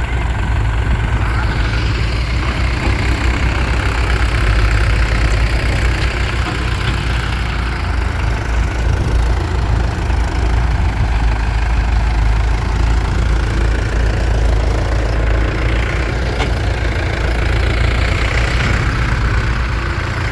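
Heavy diesel engine running steadily at a low, idle-like speed.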